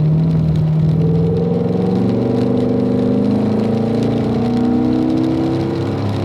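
Car engine accelerating under steady throttle, its pitch rising over the first two or three seconds and then holding fairly even.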